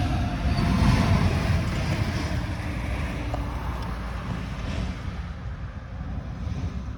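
Yanmar AF26 compact tractor's diesel engine running, loudest about a second in and then slowly fading, with wind buffeting the microphone.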